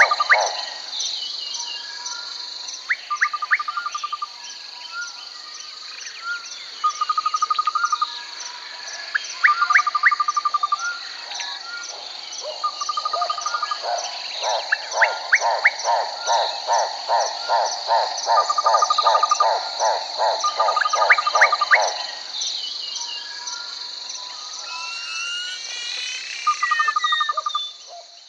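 Nature ambience: frogs calling in repeated trains of quick, even pulses over a steady high-pitched insect drone, with a few short bird chirps. It fades out near the end.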